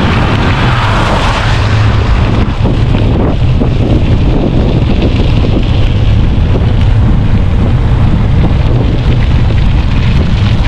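Wind buffeting the microphone of a moving bicycle rider, a loud, steady low rumble.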